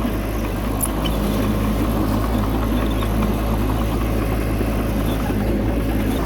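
Bulldozer's diesel engine running steadily with an even low drone, with a few faint clicks and clanks over it.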